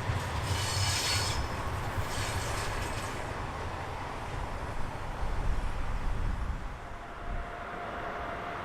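Train rolling past with a steady low rumble of wheels on track, with short high-pitched wheel squeals twice in the first three seconds; the rumble fades away near the end.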